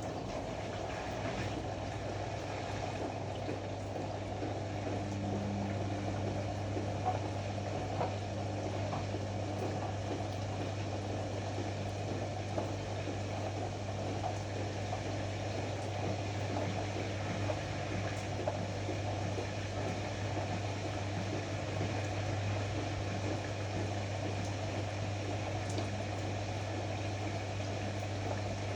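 Ariston AML125 washer-dryer running: a steady low hum under an even whooshing noise, with a few faint clicks.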